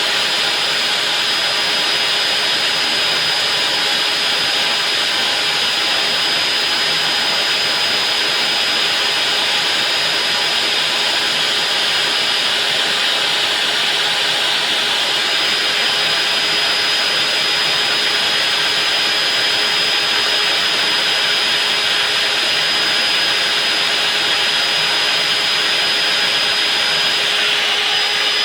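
Electric diamond core-cutting drill running steadily as it bores a four-inch hole through reinforced concrete: a continuous high motor whine over a dense grinding hiss.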